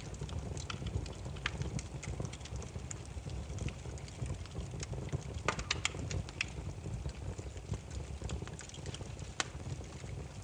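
Campfire of burning firewood crackling: irregular sharp pops and snaps over a steady low rumble, with a cluster of louder pops about five and a half seconds in.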